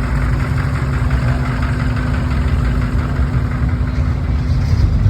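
A car engine idling with a steady low rumble and an even hum.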